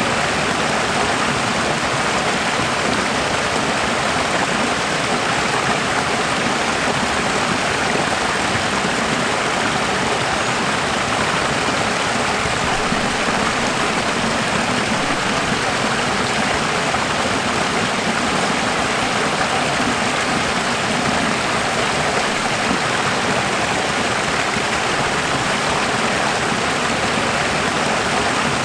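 Running water with a steady, even rush.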